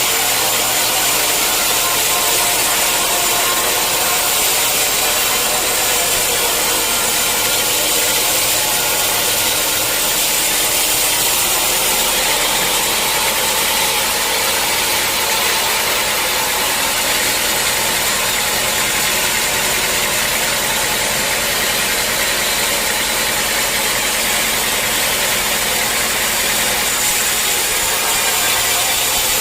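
Sawmill machinery running steadily, a loud even mechanical noise with a thin high whine and no breaks.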